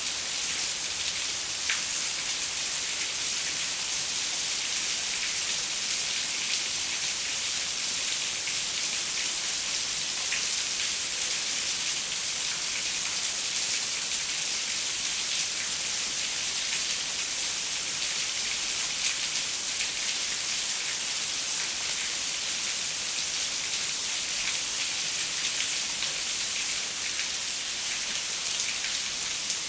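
Steady rain pattering on a window, a dense hiss with many small drop ticks.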